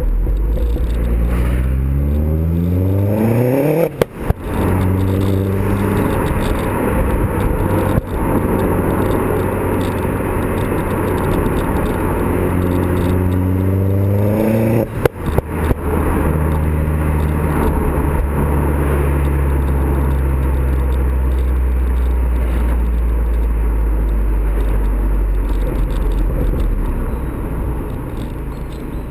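Custom exhaust on a Vauxhall Zafira VXR's 2.0-litre turbo four-cylinder: the revs climb twice, each climb cut off by a sudden short break with a few pops, then the engine runs steadily, easing off near the end.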